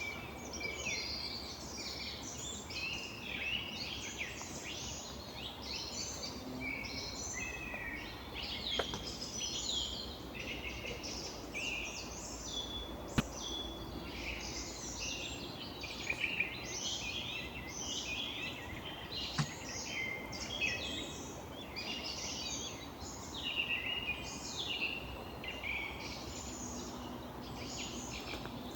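Several woodland songbirds singing at once in a continuous spring chorus of overlapping chirps and trills. A few short sharp clicks stand out, the loudest about thirteen seconds in.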